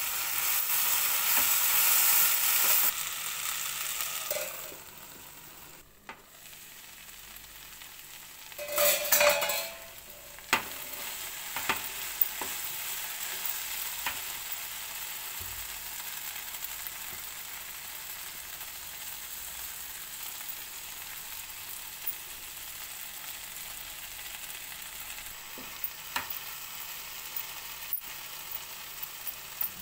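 Chopped okra sizzling as it stir-fries in a frying pan while a spatula turns it, with occasional short clicks of the spatula against the pan. The sizzle is loudest for the first few seconds, flares up again about nine seconds in, then settles to a softer, steady hiss.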